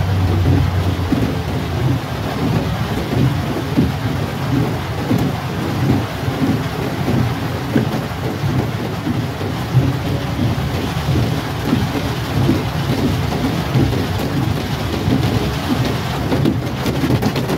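Heavy rain drumming on a car's roof and windscreen, heard from inside the cabin as a steady, dense patter with a low rumble underneath.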